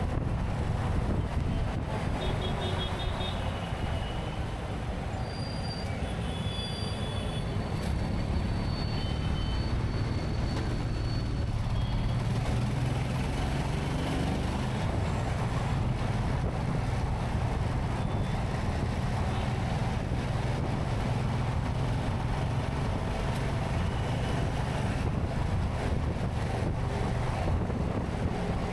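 Steady low vehicle and road drone, as on a ride through traffic, with a few faint short high tones a few seconds in.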